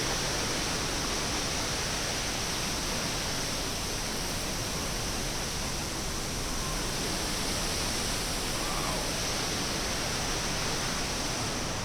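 Steady rushing roar of Glen Ellis Falls, the waterfall's water pouring and splashing, heard close from a camera held out over the edge.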